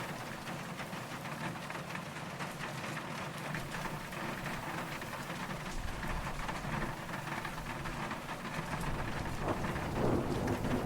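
Steady rain falling, with a low rumble of distant thunder that comes in about halfway and grows louder toward the end.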